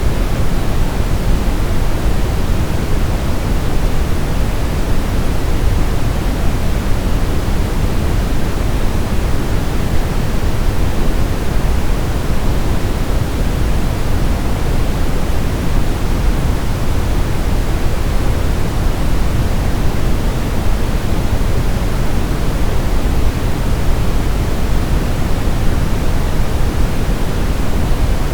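Steady brown noise: a deep, even hiss weighted to the low end, with no change or events.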